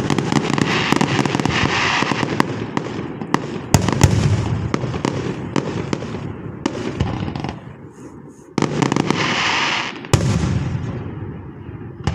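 Fireworks going off close by in a dense, continuous run of crackling pops and bangs. Fresh loud salvos start about four seconds in, again at eight and a half and at ten seconds, and the sound fades away near the end.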